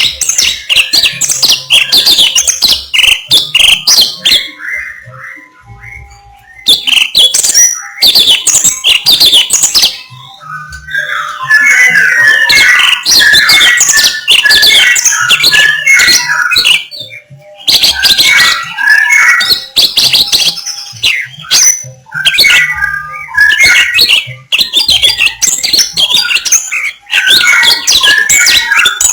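A songbird singing loud, rapid, varied phrases in bouts separated by short pauses, with one longer stretch of fast, lower-pitched chattering notes.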